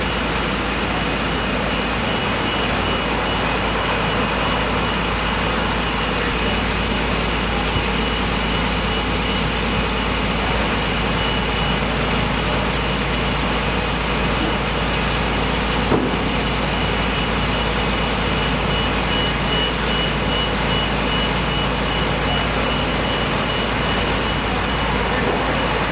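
Steady mechanical drone with a deep rumble and a constant high-pitched whine, unchanging throughout, with a couple of faint knocks.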